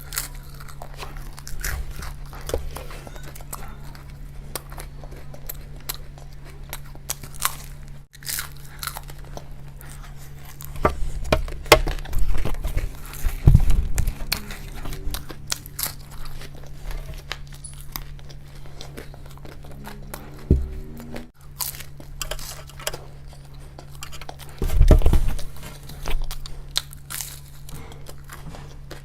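Close-miked eating: crunching bites and chewing of crisp food, loudest in two clusters partway through and near the end, over a low steady hum.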